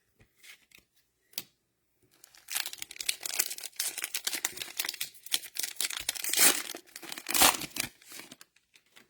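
Cellophane wrapper of an NFL Mosaic cello pack of trading cards being torn open and crinkled by hand: a couple of light clicks, then a dense run of crackling from about two seconds in, loudest in two bursts near the end.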